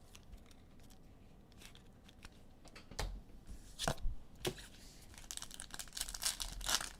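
A foil trading-card pack being torn open by hand, with sharp rips about four seconds in and crinkling of the wrapper after, following a few seconds of faint handling clicks.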